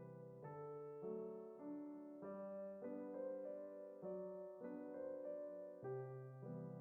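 Soft, slow piano background music, with notes and chords changing about every half second.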